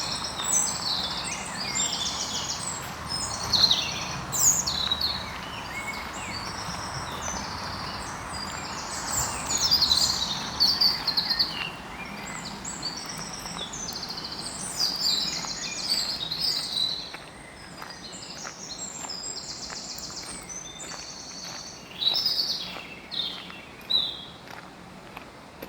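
Several songbirds singing in a park, a busy overlapping mix of high chirps, trills and warbled phrases, over a steady background hum of outdoor noise.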